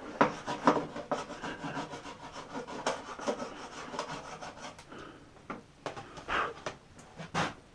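Irregular rubbing and scraping of hands working wire and solder at a workbench, with a few sharper scrapes, the strongest near the end.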